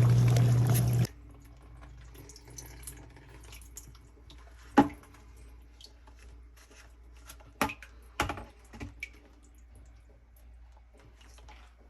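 A dishwasher's motor hums steadily and cuts off abruptly about a second in. After that come a few scattered water drips and light taps, the loudest near the middle.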